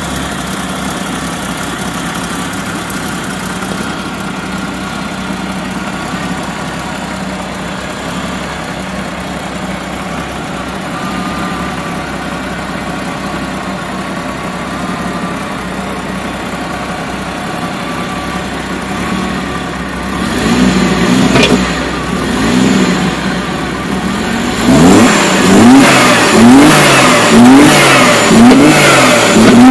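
Jeep Cherokee 4.0-litre inline-six idling steadily, then revved in quick throttle blips from about two-thirds in, each rising and falling, about one a second near the end.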